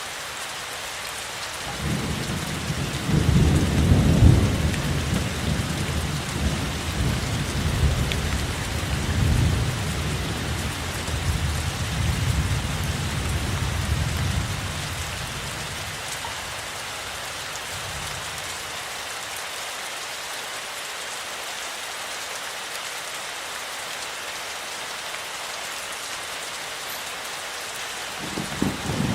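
Steady rain with a long roll of thunder that starts about two seconds in, is loudest a couple of seconds later and rumbles on in waves before dying away about halfway through; another roll of thunder begins near the end.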